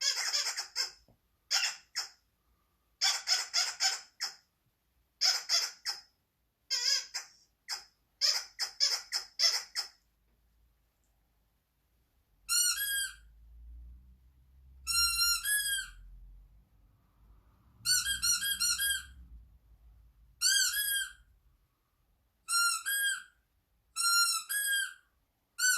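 High squeaks in quick bursts: raspy runs over the first ten seconds, then, after a short pause, clear chirping squeaks in small groups of three or four notes, each rising and falling, repeated every second or two.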